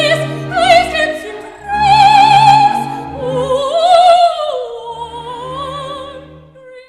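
Operatic singing: a high voice holding long notes with wide vibrato over a low instrumental accompaniment, fading out near the end.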